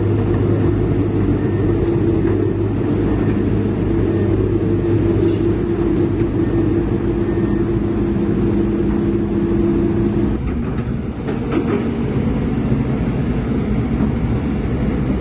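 Heavy diesel engine running steadily with a low drone, its note changing about ten seconds in.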